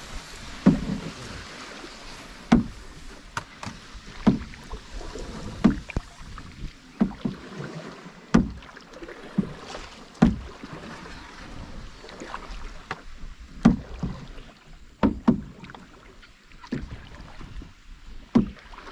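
Paddle strokes of a small rowed boat: a short sharp splash-and-knock about every one and a half seconds, over a steady wash of water and wind.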